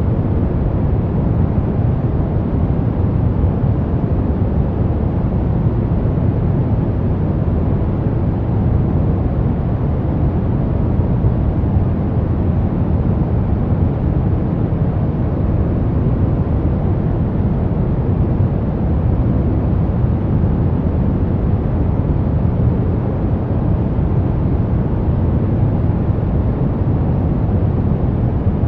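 Brown noise: a steady, deep rumbling hiss weighted toward the low end, unchanging throughout.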